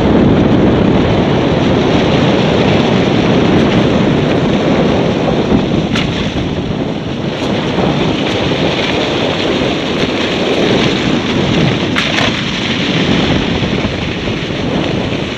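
Strong wind buffeting the microphone, a steady dense rush of air noise like that picked up while travelling on a moving vehicle, with a couple of faint ticks about six and twelve seconds in.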